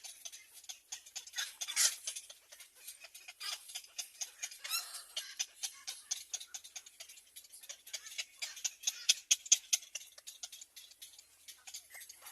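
Small birds at a nest: rapid dry ticks and rustles, with a few short high chirps about two seconds in and again near five seconds.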